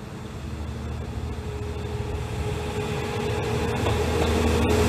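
Single-car diesel railcar approaching and passing close beneath: a steady engine drone with a few held tones, growing louder throughout, with the noise of the wheels on the rails.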